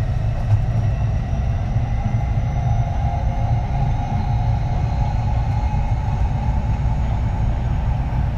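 Kintetsu 3220 series electric train running, heard from inside the car: a steady low rumble of wheels on rail, with faint high tones from the Hitachi IGBT inverter drive slowly falling in pitch.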